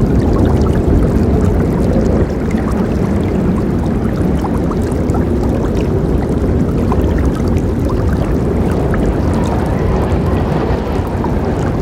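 Forest river flowing: a steady rush of water with scattered small splashes.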